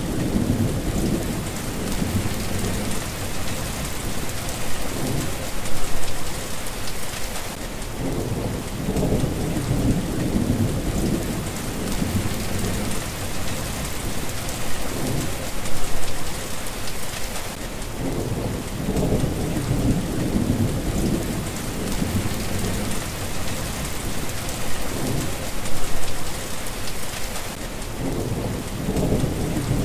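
Steady rain with low rolling thunder. The rumbles swell and fade about every ten seconds under the even hiss of the rain.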